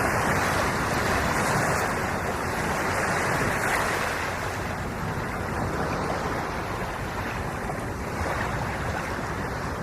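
Ocean waves washing in: a steady rush of surf that slowly eases off.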